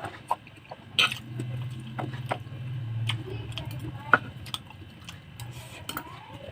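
Close-up eating sounds: scattered sharp clicks and taps of a utensil against a plate, with chewing and mouth noises in between and a low hum between about one and three seconds in.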